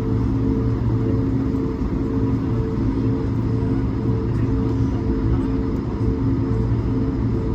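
Cabin noise of an Airbus A220-300 with its Pratt & Whitney PW1500G geared turbofans running: a steady low rumble with a constant hum under it.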